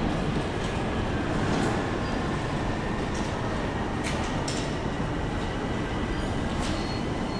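Electric train running at a station platform: a steady rumble of wheels and motors, with a faint steady whine and a few light clicks.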